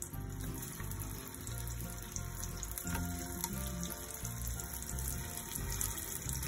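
Potato-corn tikkis shallow-frying in a thin layer of oil on a flat pan, a steady crackling sizzle, under background music with a steady stepping bass.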